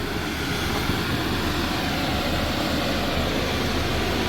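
Steady mechanical rumble and hiss, even throughout.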